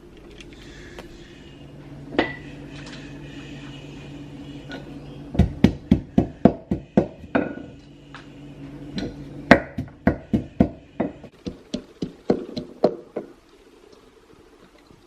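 A rapid run of sharp kitchen knocks, about three a second, from food being cut or pounded, starting about five seconds in, pausing briefly and stopping shortly before the end. A faint steady hum sits underneath at the start.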